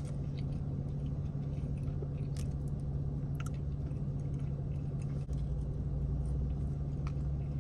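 A person chewing a mouthful of pizza, with small clicks of the bites and mouth, over a steady low hum.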